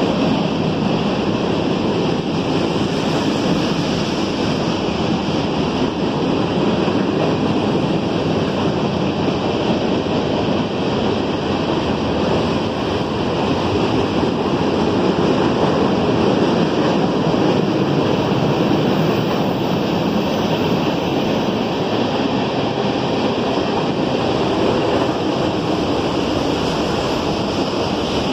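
CSX freight train's hopper cars rolling past directly below: a loud, steady rush of wheels on rail.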